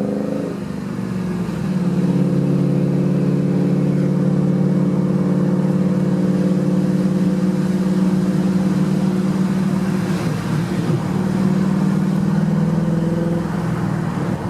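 Cammed Holden VX Commodore SS V8 pulling uphill under load, with a deep, lumpy exhaust note likened to a Mack truck. The note drops and picks back up about a second in, then holds steady.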